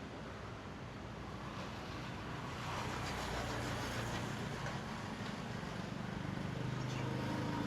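A motor vehicle's engine growing louder as it approaches, with a low steady hum near the end, over a constant hiss of outdoor ambience.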